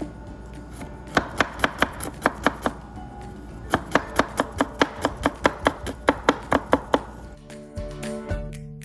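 Knife chopping garlic cloves on a cutting board in two quick runs of sharp strikes, about five a second, with a short pause between them. Background music plays underneath.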